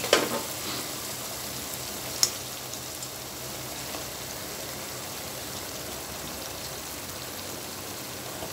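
Onion-and-spice masala paste, loosened with a little water, sizzling steadily in a frying pan, with one sharp tap about two seconds in.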